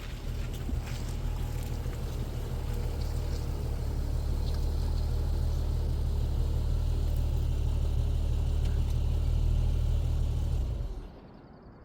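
Jeep running as it is driven, a steady low engine drone with road noise that grows slowly louder, then stops suddenly near the end.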